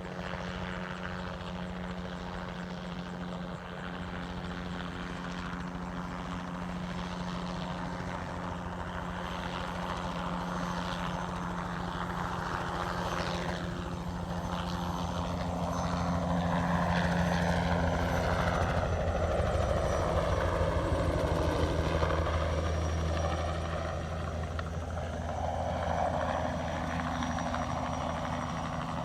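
Crop-spraying helicopter's rotor and engine running steadily, growing louder as it passes close about two-thirds of the way through, then easing off again.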